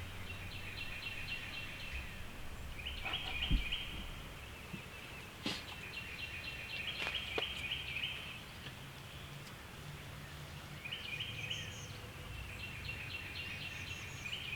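A songbird singing a rapid high trill, repeated four times with pauses between songs, over a low outdoor rumble. A single thump and a sharp click come a few seconds in.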